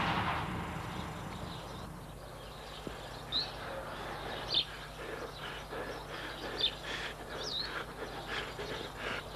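Birds chirping now and then, short high chirps scattered over a faint steady outdoor background. A deep boom dies away over the first second or so.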